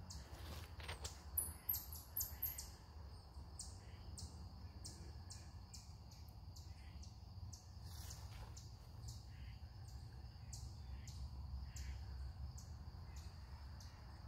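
Faint woodland ambience: small birds giving short, high chirps, a quick cluster about a second and a half in, then chirps about twice a second, over a steady low rumble.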